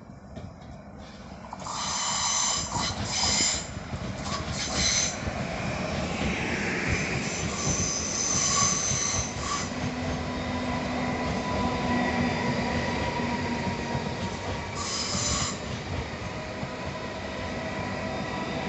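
Passenger train running past at close range: a steady rail rumble that swells about a second and a half in, with wheels squealing in several short high-pitched bursts.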